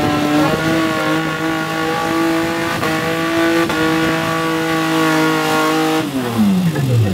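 Off-road 4x4 engine revved up and held at a steady high pitch for about six seconds, then dropping back down near the end.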